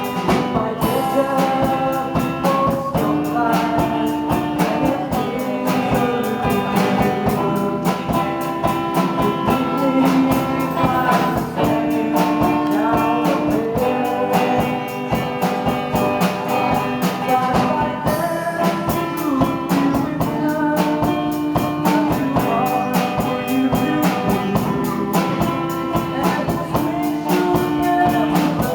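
Acoustic guitar strummed in a steady rhythm, with singing over it.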